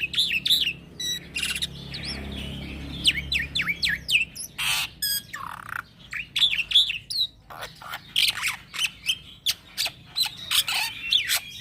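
Young black-winged starling (jalak putih) singing a fast, unbroken run of chirps, whistles and harsh rasping notes.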